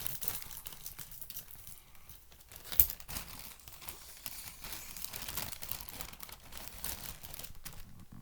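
A deflated helium balloon being handled and cut open, crinkling and crackling continuously, with one sharp knock a little under three seconds in.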